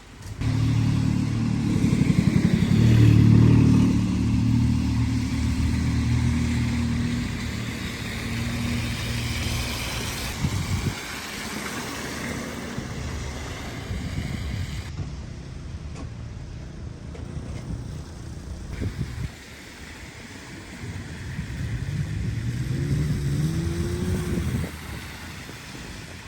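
A motor vehicle's engine passes close by, loudest about three seconds in and fading away over several seconds. Near the end, another engine accelerates, its pitch rising, over a steady hiss of street noise.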